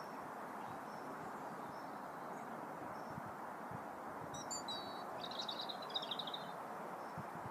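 Small bird chirping, then a rapid high twitter about five seconds in, over a steady outdoor hiss.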